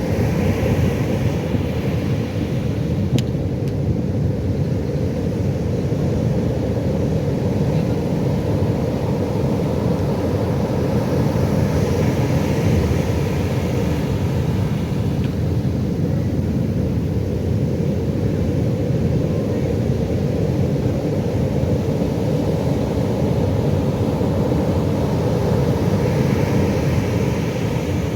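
Pacific Ocean surf: a steady low rumble of waves, swelling with a brighter wash as a wave breaks near the start, again midway and again near the end.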